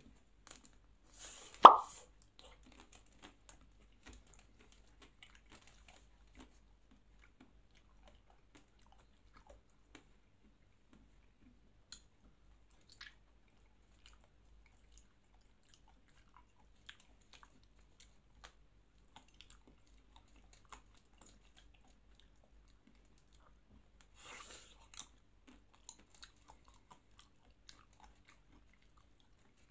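Close-up eating of a chocolate-and-almond-coated Magnum ice cream bar: soft scattered chewing clicks, with one loud mouth sound about two seconds in and a short burst of crunching a little before the end.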